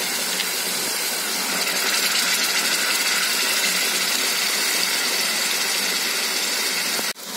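Onion and ginger-garlic paste frying in hot oil, a steady sizzle that breaks off for a moment near the end.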